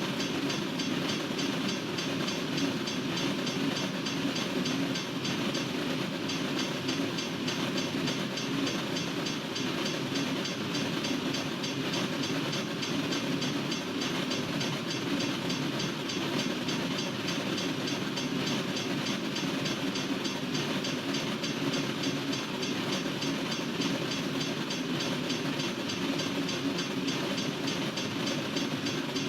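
Freight train cars rolling steadily past a railroad crossing, a continuous rumble with wheel clatter on the rails and no horn.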